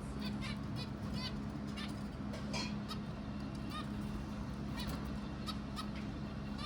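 Several birds calling: many short, high, repeated calls scattered throughout, over a steady low hum.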